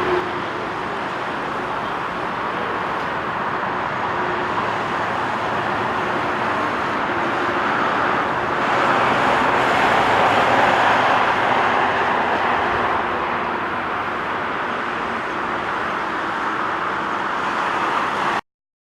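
Boeing 787-9 jet engine noise, swelling to its loudest about halfway through and then easing, cut off abruptly just before the end.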